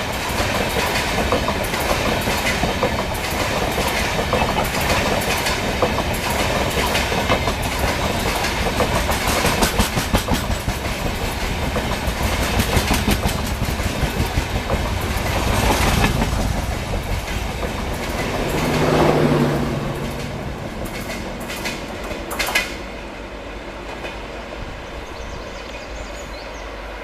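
Indian Railways Humsafar Express passenger train passing close by, its coaches clattering rhythmically over the rail joints. The sound cuts off sharply about 22 seconds in, leaving a quieter background.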